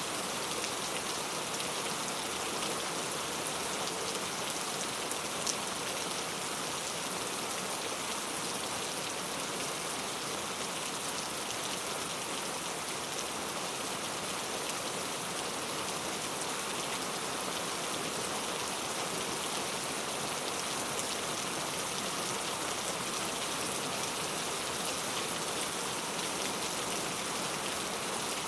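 Heavy rain falling steadily on hard surfaces, a dense even hiss of drops, with one sharp single drop tick about five seconds in.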